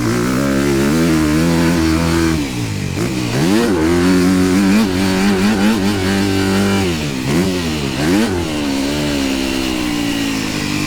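Dirt bike engine running hard under throttle. Its pitch drops and then climbs sharply as the throttle is rolled off and opened again, about a quarter of the way in and again about three quarters of the way in, and it holds steady in between.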